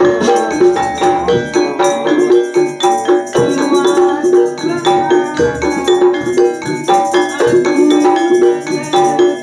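A Javanese gamelan ensemble playing: dense struck metal notes ring and overlap, with a low stroke about every two seconds.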